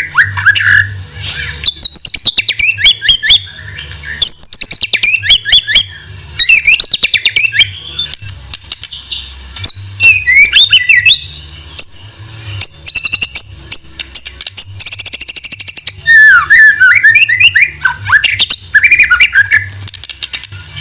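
White-rumped shama (murai batu) singing loudly. Bursts of varied, fast-changing whistled phrases alternate with rapid clicking trills and rattling chatter, over a steady high-pitched hiss.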